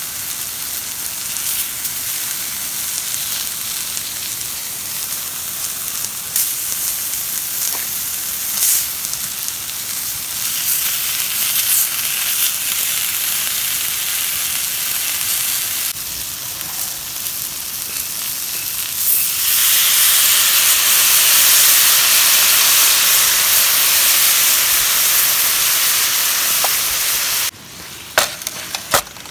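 Food sizzling on a hot iron griddle over a campfire, with scattered pops and crackles. About two-thirds of the way in the sizzle grows much louder, then cuts off suddenly near the end, followed by a few sharp clicks.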